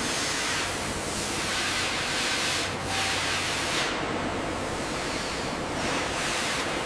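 Steady, loud hissing spray, like compressed air or a spray gun, swelling and easing a few times.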